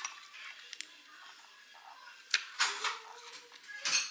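Dishes and utensils being handled: a few short clinks and knocks, the loudest about two and a half seconds in and again near the end.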